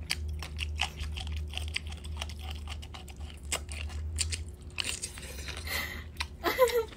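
Close-miked mukbang eating: crisp crunching, biting and wet mouth clicks as a large translucent piece of crunchy seafood is bitten and chewed, over a low steady hum that stops partway through. A brief voice sounds near the end.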